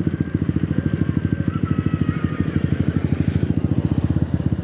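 Motorcycle engine idling close by: a steady, even run of fast low pulses with no revving.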